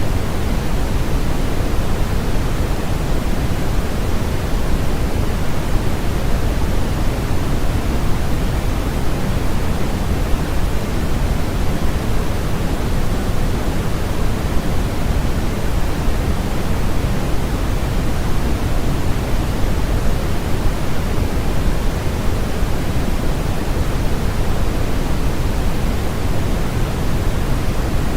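Steady synthetic sleep-aid noise, an even hiss that never changes, deeper and fuller in the lows than a bright static hiss.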